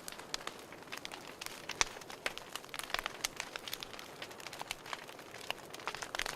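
Fireplace crackling: irregular sharp pops and snaps of burning wood over a soft steady hiss.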